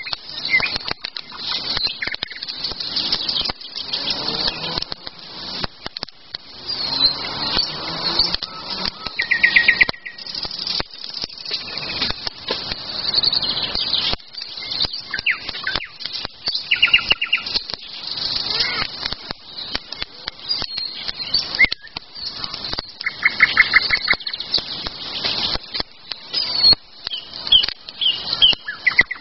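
Wild songbirds singing: high chirps and whistled phrases, with a fast trill about a third of the way in and again later on, over a scatter of small clicks and crackles.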